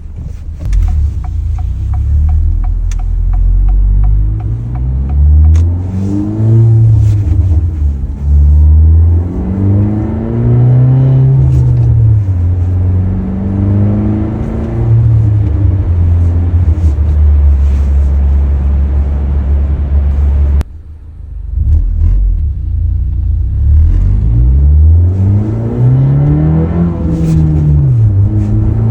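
Acura Integra's 1.5-litre turbocharged four-cylinder heard from inside the cabin through an MBRP cat-back exhaust with the resonator deleted, accelerating through the gears: the engine note climbs and drops back at each upshift, several times over. About twenty seconds in the sound briefly cuts out and falls quiet, then the revs climb again.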